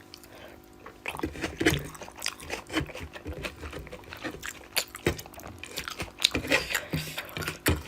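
Close-up eating sounds of a person eating rohu fish curry: irregular wet smacks, clicks and chewing.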